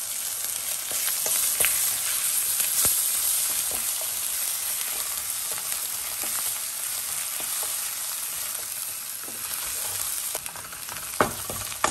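Onion, spices and garlic-ginger paste sizzling in hot oil in a thick karahi, stirred with a wooden spatula that scrapes and taps the pan now and then; a sharper knock near the end. This is the masala base being fried for a curry.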